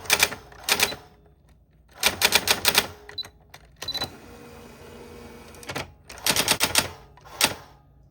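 Typewriter keys striking in quick runs of several keystrokes, three runs with pauses between. A quieter, steady hiss fills part of the second pause.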